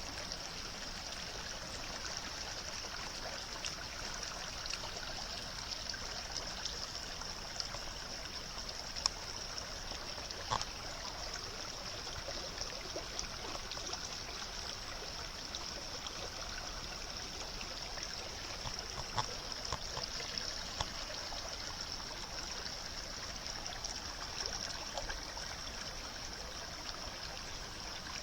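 Steady trickle and rush of running water, with a few faint ticks and knocks over it.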